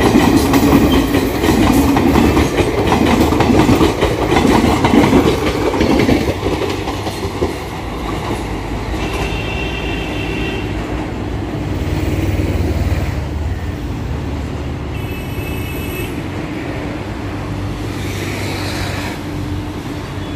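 Coaches of an Indian Railways express passing at speed, with loud wheel clatter and rumble that drop to a softer rumble about seven seconds in as the train moves away. Two short, high horn toots sound about nine and fifteen seconds in.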